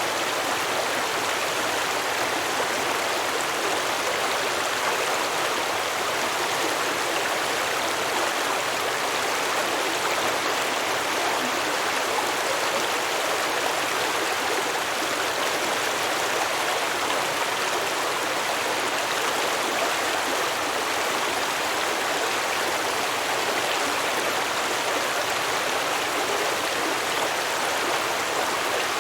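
Stream water flowing and babbling over rocks: a steady, even rush with no breaks.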